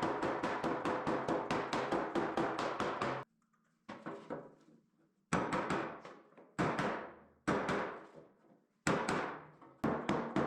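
Rubber mallet beating a dented sheet-metal body panel of a Cat 308 excavator over a dolly and wood block: a quick run of blows, about six a second, then a short pause, then single ringing blows about a second apart, and another quick run near the end.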